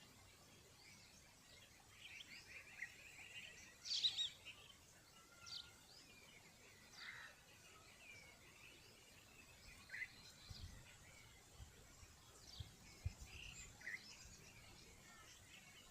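Scattered faint bird chirps, short and high, over quiet outdoor background noise, with the loudest chirp about four seconds in. A few soft low bumps come in the second half.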